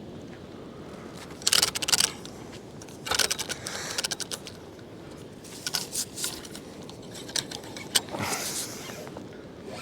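Clinking and rattling in about five short bursts over a steady low rushing background.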